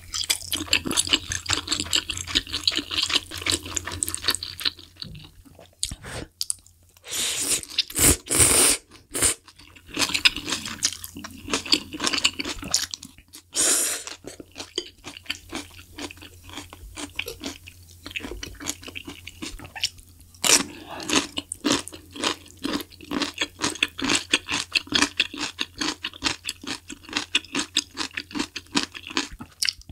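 Close-miked chewing of malatang noodles and toppings: dense, wet mouth clicks with crunchy bites, and a few louder noisy bursts along the way.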